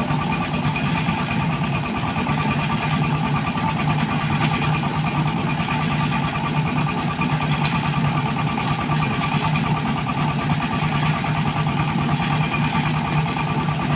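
Sugarcane juice crushing machine running steadily, its drive giving a fast, even low pulse with a constant hum over it.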